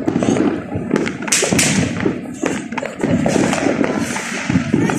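Rough, crackling rumble with many irregular thumps, typical of a microphone on a moving motorcycle catching wind buffeting and engine noise.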